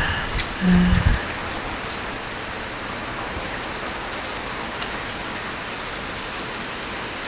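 Hard rain falling steadily, an even hiss of drops on hard surfaces. In the first second a brief low rumble stands out over it.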